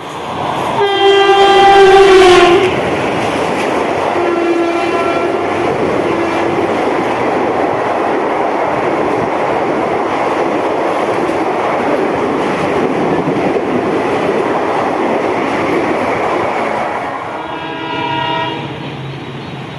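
Indian Railways express train passing at speed: the locomotive's multi-tone horn sounds loudly about a second in and drops in pitch as it goes by, a shorter horn follows a few seconds later, then the steady rumble and clickety-clack of the coaches. Another horn sounds near the end.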